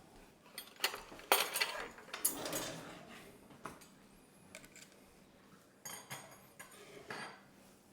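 Forks and serving utensils clinking and scraping against plates and dishes as supper is dished up, with a string of separate sharp clinks, the loudest in the first few seconds.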